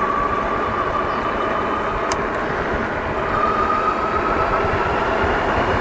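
Amyet S8's electric motor whining at speed on a single motor, its pitch climbing slowly as it gains speed, over a steady rushing noise. A single sharp click about two seconds in.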